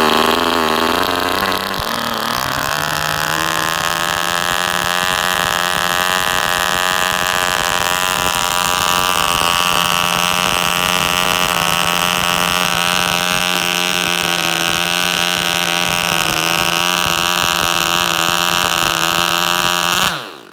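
Small spark-ignition gas engine for RC models running on a test bench. Its pitch wavers for the first few seconds, then holds steady, and it cuts off suddenly near the end.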